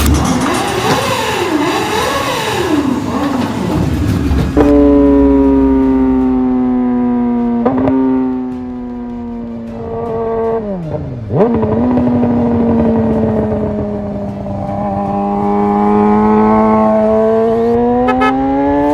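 Motorcycle engine running hard: the revs rise and fall for the first few seconds, then hold a steady note. The engine drops briefly about eleven seconds in, like a gear change, and the revs climb steadily towards the end as it accelerates.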